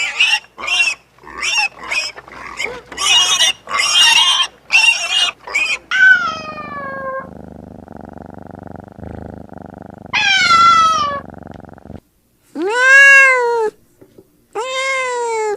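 Kittens mewing: a quick run of short, high-pitched mews for the first six seconds, then a few longer meows. Near the end come three drawn-out meows that rise and fall in pitch.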